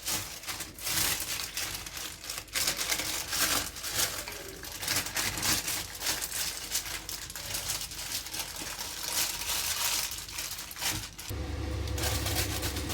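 Rustling and crinkling with frequent light clicks and knocks; about eleven seconds in it cuts off suddenly to a steady low hum.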